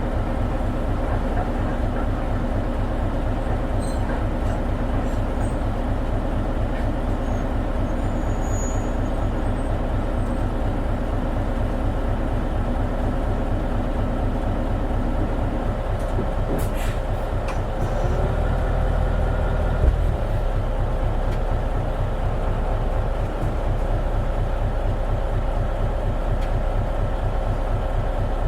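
Isuzu Erga city bus (KL-LV280N1) diesel engine and drivetrain running under way, heard from inside the bus, with an even low throb. Around two-thirds of the way in the low rumble swells for a couple of seconds and ends in a single short knock.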